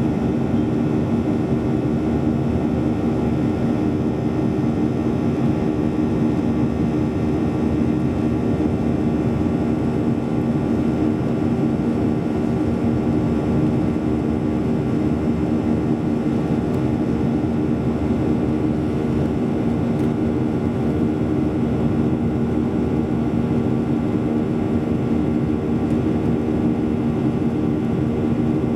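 Cabin noise inside a Boeing 737-800 in flight: the steady drone of its CFM56-7B jet engines and rushing air, with a constant hum of several steady tones.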